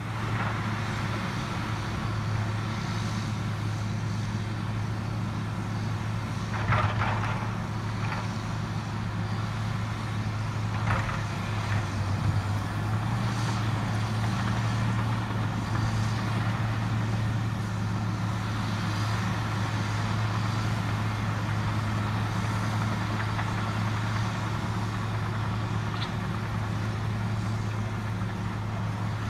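Vehicle engine running steadily at an even speed, with a few short knocks about a quarter and a third of the way through.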